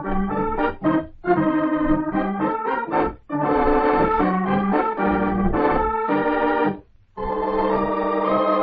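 Organ music: a run of short chords and held chords, breaking off briefly about seven seconds in before a long sustained chord.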